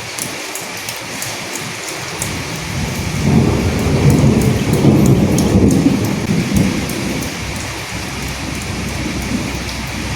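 Steady rain falling, with individual drops ticking sharply. A low roll of thunder swells about three seconds in and fades out a few seconds later.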